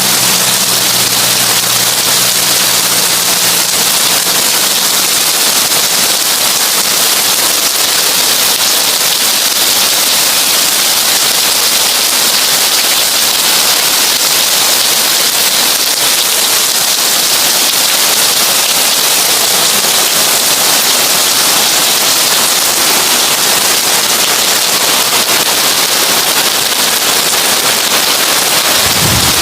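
Heavy rain drumming steadily on a tin roof, a dense, even crackling hiss. A faint low hum fades out in the first few seconds.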